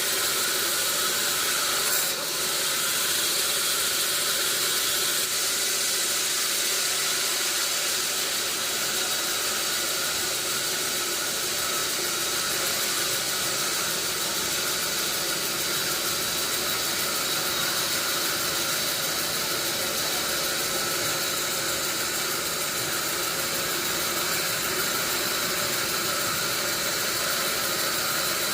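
A steady, even hiss that holds unchanged throughout, with a faint click about two seconds in.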